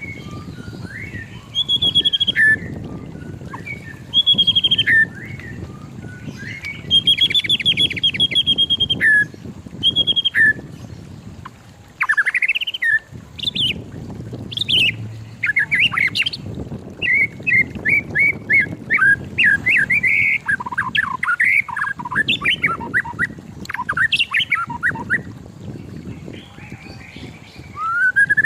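White-rumped shama singing: a long, varied run of clear whistled phrases with sweeping notes, breaking into fast strings of short notes about two-thirds of the way through.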